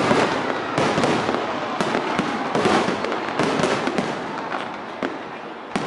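Aerial fireworks going off in quick succession: repeated sharp bangs over a continuous crackle, with a heavier bang about a second in and another near the end.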